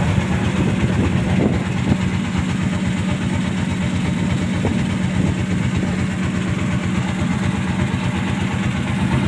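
A ship's engine running steadily on board, a low drone with a fast, even pulse.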